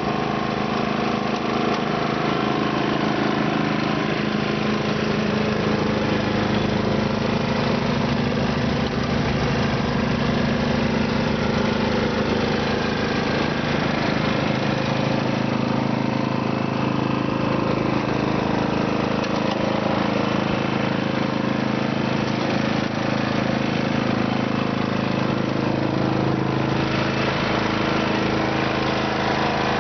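Simplicity snow blower's engine running steadily while clearing snow.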